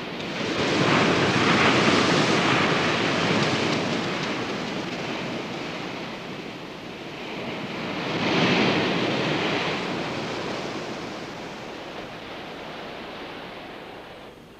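Ocean waves breaking on a beach: a wave crashes about a second in and washes out slowly, then a second wave breaks about eight seconds in and fades away.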